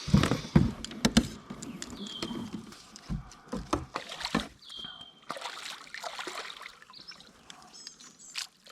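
Irregular knocks on a canoe hull and light water splashing as a small fallfish is landed and handled, loudest in the first second.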